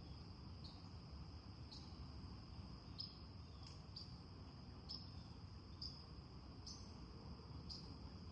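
Faint crickets chirring: a steady high trill with a stronger chirp about once a second.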